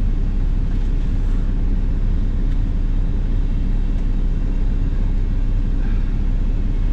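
Steady low rumble of a Ford F-250 Super Duty's 6.7 L diesel engine and road noise, heard from inside the cab.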